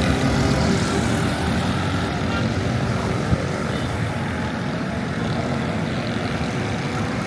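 Steady low engine rumble amid street noise, with a single knock about three seconds in.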